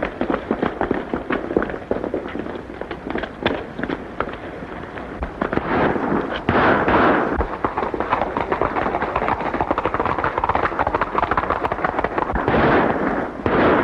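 A rapid volley of sharp cracks and pops from old film-soundtrack gunfire, followed from about six seconds in by a denser, louder stretch of shots and noise.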